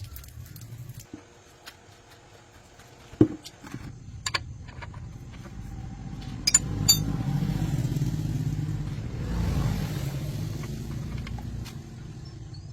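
An engine running steadily, rising in about halfway through, with a few sharp clicks and knocks before it.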